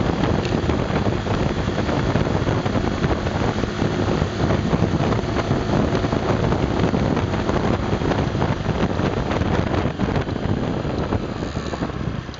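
Honda Super Cub 110's small single-cylinder four-stroke engine running steadily while riding uphill, with heavy wind buffeting the microphone.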